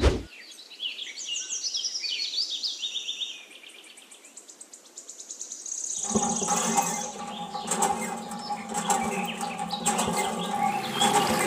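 Small birds chirping and tweeting in quick rising and falling calls, with a fast trill about five seconds in. From about six seconds a steady hum with scattered clicks sets in beneath them.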